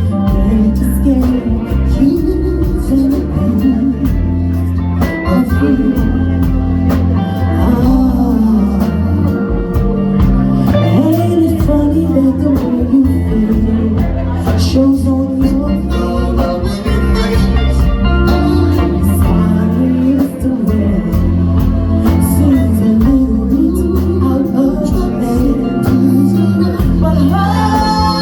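Live band playing a slow R&B song, with bass, drums and guitar under a sung melody line.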